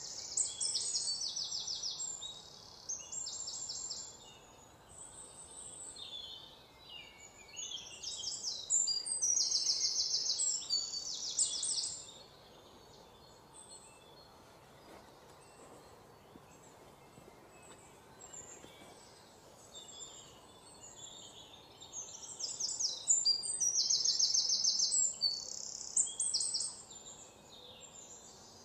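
Songbird singing rapid trilled phrases in three spells of a few seconds each, with quieter gaps between them over a faint steady background.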